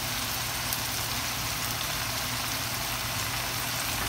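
Marinated chicken legs sizzling in ghee in a nonstick pan: a steady frying hiss with a few small pops.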